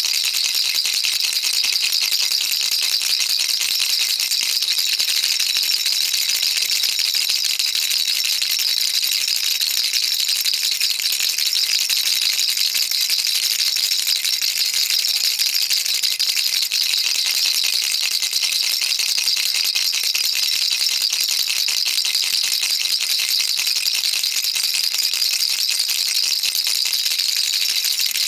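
Baby rattle shaken continuously, its beads clattering in a fast, steady, dense stream of small clicks.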